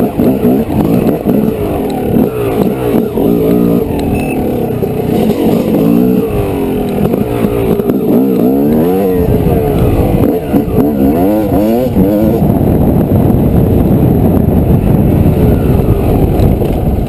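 Dirt bike engine running hard, its pitch rising and falling again and again as the throttle is worked.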